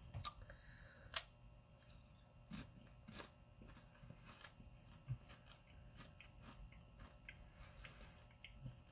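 A person biting into and chewing a Pringles potato crisp with their mouth closed. There are a few sharp crunches, the loudest about a second in, then fainter chewing.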